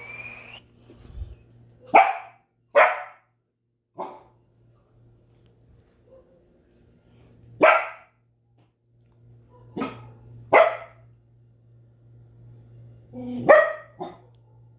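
Belgian Malinois barking: about eight single, loud barks with irregular pauses between them, some coming in quick pairs.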